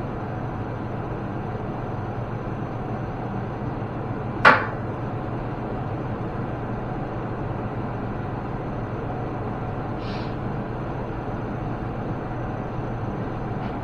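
Steady machine hum in a workshop, broken about four and a half seconds in by one sharp knock with a brief ring, with two faint ticks later on.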